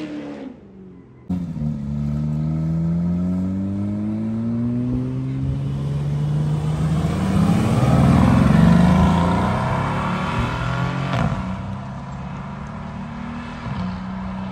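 A car accelerating away, its engine note rising steadily in pitch, growing loudest as it passes about eight seconds in, then giving way to a lower, steady engine hum near the end.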